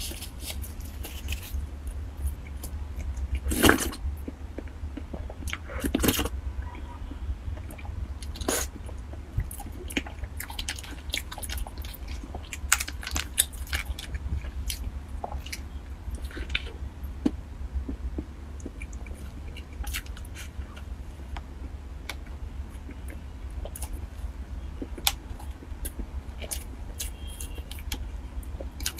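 Close-miked eating sounds: chewing and mouth smacks on soft cake rolls, with scattered clicks and a few louder rustles from handling the plastic trays and wrapper, over a steady low hum.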